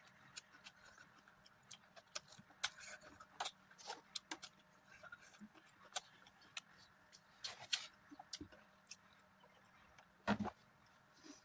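Close-miked eating sounds of a person chewing a mouthful of mutton curry and rice: faint, irregular mouth clicks and smacks, with one louder knock about ten seconds in.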